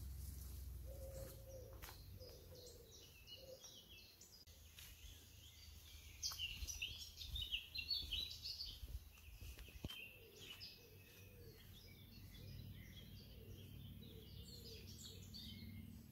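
Wild birds chirping and singing, several short calls overlapping, busiest and loudest for a few seconds in the middle, over a faint low background rumble.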